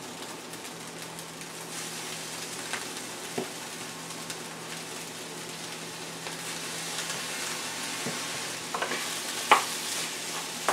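Yellow rice and beans sizzling steadily in a hot stainless steel skillet, with a few knocks of a wooden spoon against the pan near the end as it is stirred.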